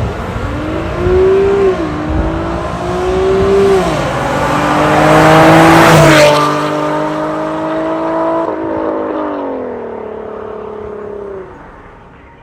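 Infiniti FX35's VQ35HR 3.5-litre V6 through an MS-R cat-back exhaust with valves, accelerating hard through several gears: the pitch climbs and drops back at each shift, loudest about halfway. It then holds a steady note, drops in pitch and dies away near the end.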